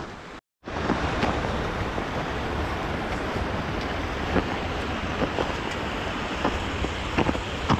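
Wind buffeting the microphone: a steady rushing with a heavy low rumble, starting after a brief moment of silence. Faint scattered crunches, like footsteps in fresh snow, come through it now and then.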